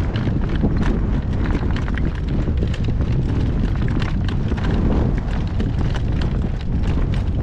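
Horse's hooves clip-clopping at a slow trot, with strong wind buffeting the microphone in a constant low rumble.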